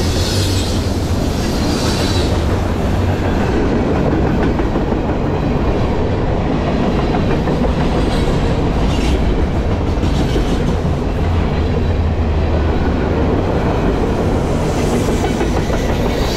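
Freight cars rolling past at close range: a steady, heavy rumble with the clickety-clack of wheels over rail joints. A few times a brief high-pitched wheel squeal rises above it.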